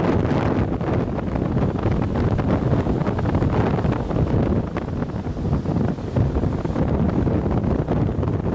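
Strong gale-force wind buffeting the microphone in continuous, uneven gusts.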